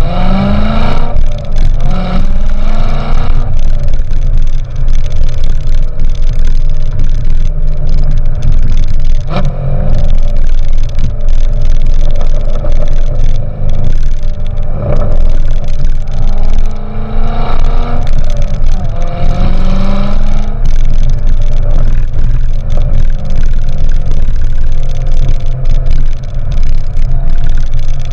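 2014 Corvette Stingray Z51's 6.2-litre LT1 V8 running through the GM Performance Exhaust while the car is driven. Its pitch rises in several pulls through the gears, then it runs steadily for the last few seconds.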